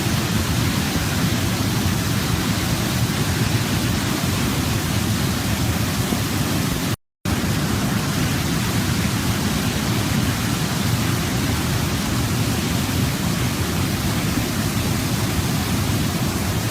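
Waterfall: a steady rush of falling water. About seven seconds in, the sound cuts out completely for a fraction of a second and then resumes unchanged.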